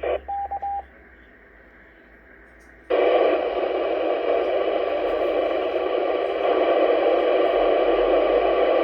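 Radio transceiver: a short burst, then three quick beeps of a roger tone under a second in. About three seconds in a loud steady hiss of radio static opens as a transmission keys up, with no voice on it.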